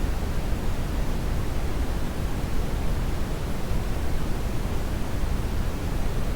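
Steady brown noise: an even, deep rushing hiss weighted heavily toward the low end, with no changes or events.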